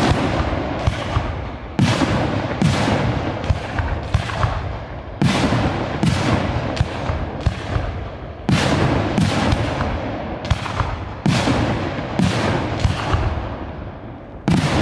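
Professional display fireworks going off: sharp bangs in runs of about four, a new run roughly every three seconds, each bang trailing off in a long rolling echo.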